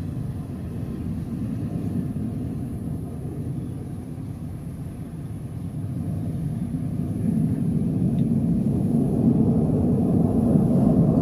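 Airplane engine rumble, low and steady, growing louder over the second half.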